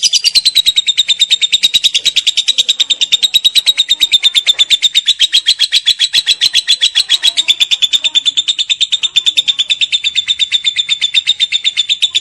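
Lovebird giving its long 'ngekek' call: a rapid, unbroken chattering trill of many high, even pulses a second.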